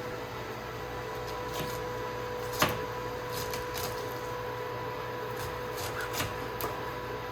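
A steady electrical hum with scattered light clicks and knocks of things being handled; the sharpest knock comes about two and a half seconds in.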